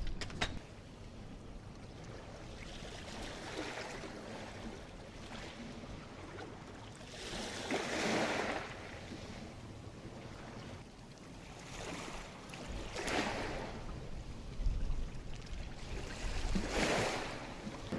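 Ocean waves washing onto the beach, a wash swelling up and fading away every few seconds.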